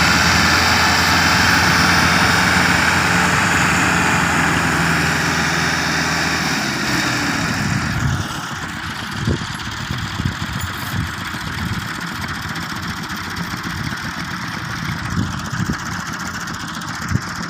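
Massey Ferguson 385 tractor's four-cylinder diesel engine running steadily at raised revs, then dropping back about seven to eight seconds in to a quieter, uneven idle with irregular low knocks.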